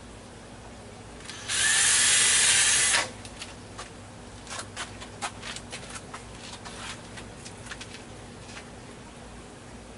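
Power drill running for about a second and a half, drilling a small hole, followed by a few light clicks and knocks of handling.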